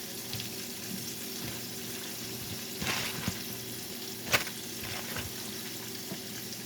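Salmon frying in hot oil in a pan, a steady sizzle. A few sharp knocks cut through it around the middle, the loudest a little after four seconds in.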